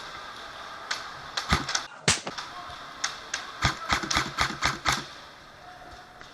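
Airsoft guns firing: sharp cracks, first singly and in short bunches, then a quicker run of about a dozen shots that stops about five seconds in.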